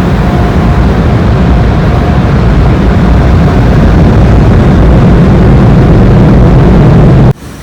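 Automatic car wash working over the car, heard from inside the cabin: a loud, steady rush that cuts off suddenly about seven seconds in.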